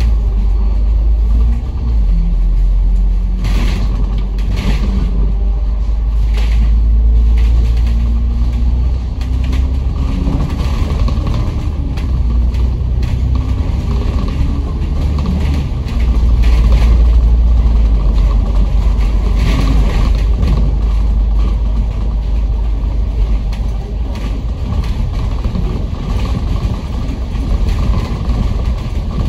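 A bus running on the road, heard from inside: a steady low engine and road rumble, with the engine note rising several times as it picks up speed. Short knocks and rattles come through here and there.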